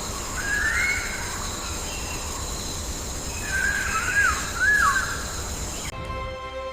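Jungle ambience: a few whistled bird calls, one rising call about half a second in and two or three short rise-and-fall whistles around four seconds in, over a steady high hum and a low rumble. The ambience cuts off near the end.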